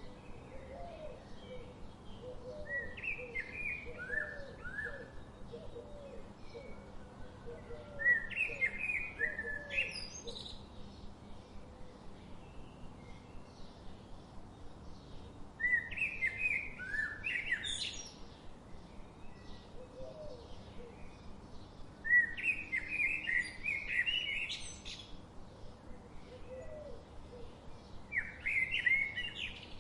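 Songbirds singing: short bursts of rapid chirps and whistles, the loudest about every six seconds, over a faint steady outdoor background.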